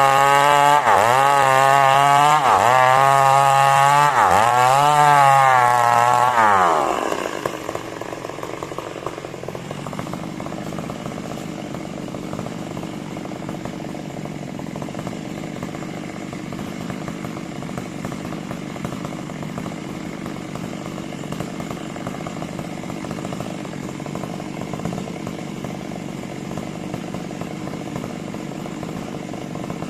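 Two-stroke chainsaw running at high revs, its pitch dipping and recovering about every second and a bit as it cuts coconut wood. About six seconds in the throttle is released, the revs fall away, and the engine settles to a steady idle.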